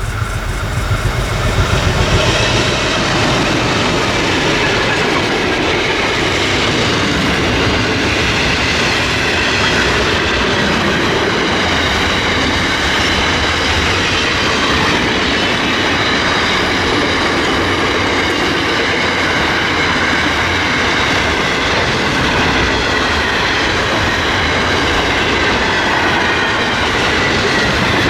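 Freight train rolling past at close range: a long, loud run of wagon wheels on the rails, with a high, wavering squeal from the wheels. It is loudest about two seconds in, then holds steady.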